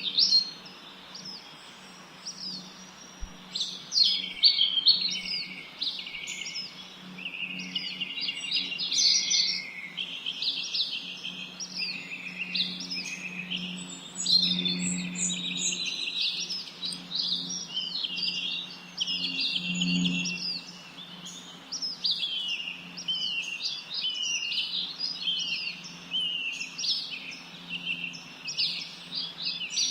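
Several small songbirds singing and chirping continuously, their quick overlapping trills and calls high in pitch, over a faint steady low hum.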